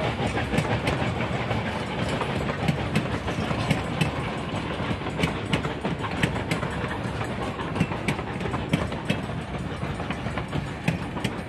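Narrow-gauge passenger coaches rolling past, a steady rumble of wheels on rail with irregular clicks as the wheels cross rail joints.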